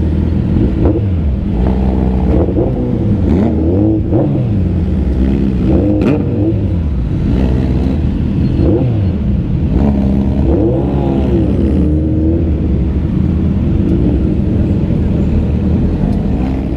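Superbike engines running loud with a steady low idle, blipped again and again so the pitch rises and falls every second or two.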